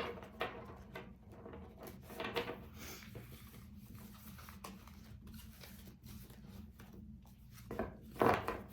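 Tarot cards being handled: soft rustling and light taps, with a louder sound near the end.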